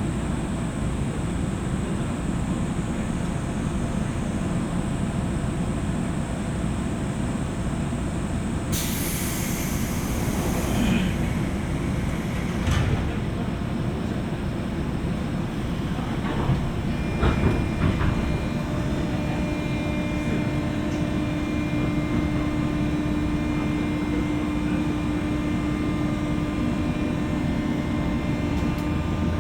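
JR West 201 series electric train running between stations, heard inside the car: a steady low rumble of wheels on the rails. About nine seconds in there is a brief burst of hiss, a few knocks follow around two-thirds of the way through, and a steady hum comes in for the last part.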